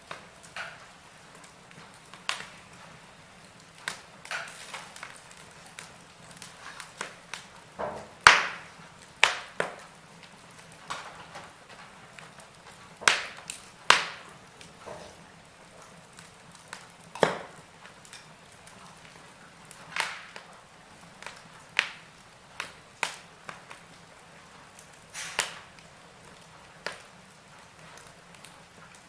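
Wood fire in a fireplace crackling, with irregular sharp pops and snaps over a faint steady hiss; the loudest pops come about eight seconds in and twice around thirteen to fourteen seconds in.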